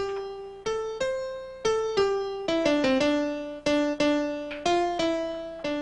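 Background music: a keyboard plays a melody of single struck notes, each fading away, with a few quicker runs of notes.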